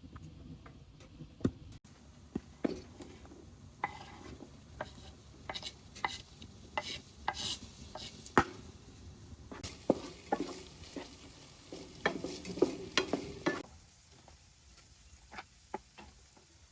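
A utensil stirring and clinking in a cooking vessel: irregular light clicks and short scrapes that stop about fourteen seconds in.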